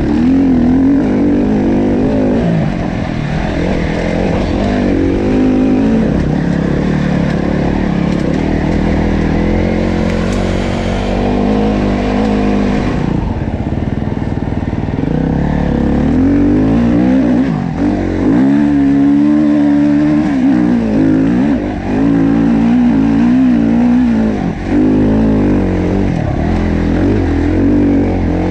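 Dirt bike engine running under way, its revs repeatedly rising and falling as the rider accelerates and eases off.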